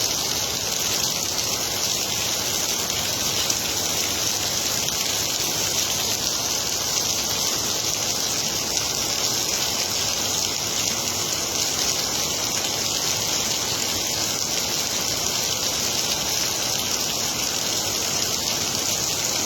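Intense rain falling steadily and heavily, with a dense, even hiss of rain and running water throughout.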